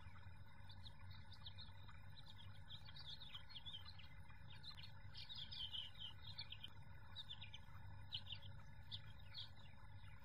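A small bird chirping and twittering faintly in quick irregular notes, busiest around the middle, over a low steady rumble of breeze.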